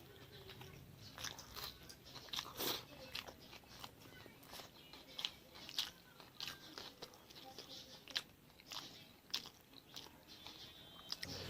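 A person eating close to the microphone: irregular crisp crunches and clicks of biting and chewing food.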